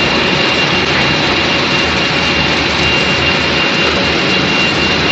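Twin-screw food extruder line running: a loud, steady machinery noise with a constant high whine over it.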